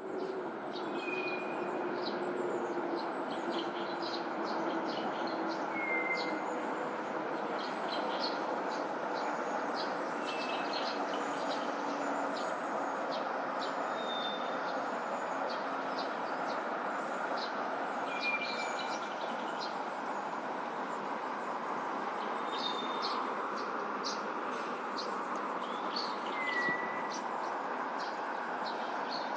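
An unidentified songbird gives short whistled notes every four to five seconds, each sliding slightly down in pitch, among many quick high chirps. Beneath them runs a steady background rumble, with a low hum that slowly falls in pitch during the first half.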